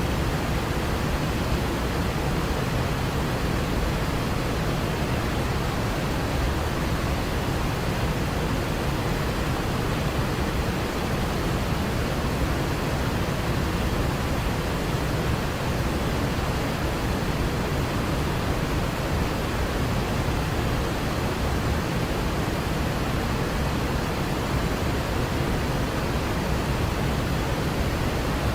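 Waterfall's falling water rushing steadily, an even unbroken noise heaviest in the low end.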